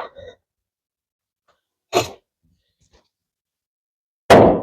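Hatchet chopping: a lighter blow about two seconds in, then a loud thunk near the end.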